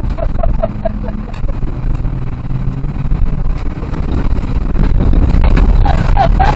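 Citroën C2 rally car driven hard, heard from inside the cabin: the engine runs loud over heavy road and chassis rumble with scattered knocks. The engine note drops about one and a half seconds in, and the car gets louder about three-quarters of the way through.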